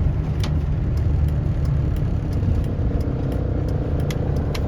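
Car driving on the highway, heard from inside the cabin: a steady low rumble of engine and road, with faint light ticks scattered through it.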